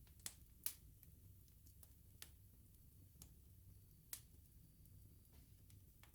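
Wood bonfire crackling: scattered sharp pops and snaps at irregular intervals over a faint low rumble of the burning fire.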